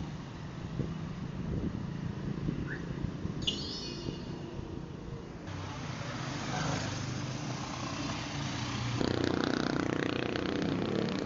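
Motor vehicle engine running, with the sound changing abruptly about five and a half and nine seconds in, and louder after the second change.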